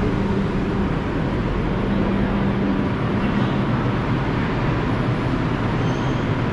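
Steady rumble and hum inside an R142 subway car, with a low electrical tone that fades in and out.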